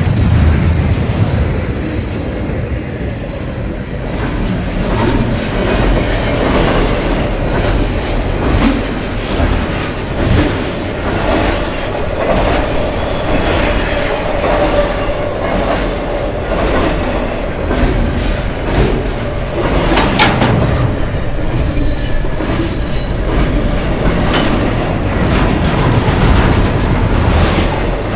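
A train rolling past, its wheels clicking over the rail joints, with a thin steady wheel squeal in the second half.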